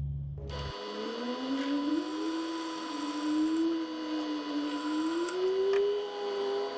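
Electric drill boring holes in a 12 mm solid bar, its motor tone rising and wavering in pitch as the bit cuts under load. A low hum stops just under a second in.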